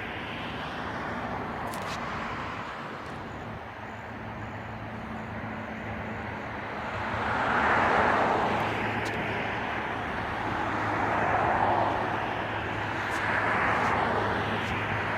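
Road traffic going by: a steady rush of tyre and engine noise that swells and fades several times as vehicles pass, with a low steady hum under it.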